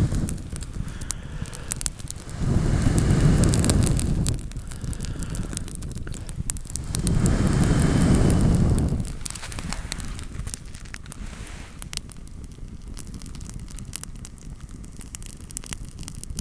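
Small wood campfire crackling with sharp pops, being built up to a bed of embers. Twice a loud, low rush of air lasting about two seconds sweeps over it.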